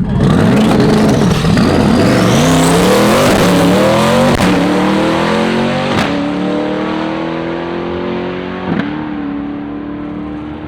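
Twin-turbo C8 Corvette V8 launching hard and accelerating down the drag strip: the engine note climbs through the gears, broken by three quick upshifts, then fades as the car pulls away.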